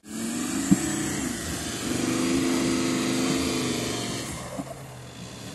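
Volkswagen Touareg's engine running hard under load as the SUV climbs a steep slope, its pitch holding fairly steady. A single sharp knock comes under a second in, and the engine sound drops away about four seconds in.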